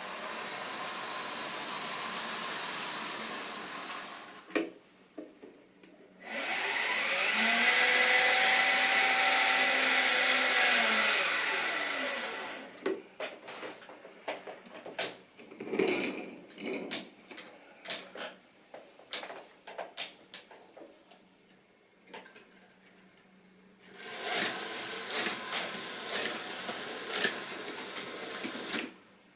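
Model train running on the track: a small electric motor whine and wheel rumble that swells loudest for about six seconds as it passes close by, its pitch rising, holding and falling, followed by a long run of irregular clicks of wheels over rail joints and points, and another stretch of running noise near the end.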